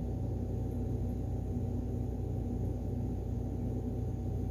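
Steady low electrical or mechanical hum with a faint constant tone above it, unchanging throughout.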